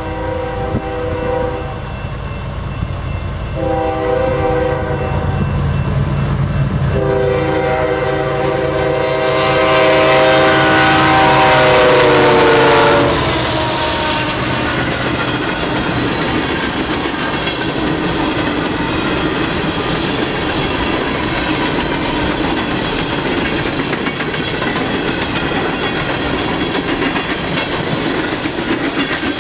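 BNSF freight locomotive air horn sounded three times, the third blast long and dropping in pitch as the locomotives pass. Then the empty coal hoppers roll by with a steady rumble and clickety-clack of wheels over rail joints.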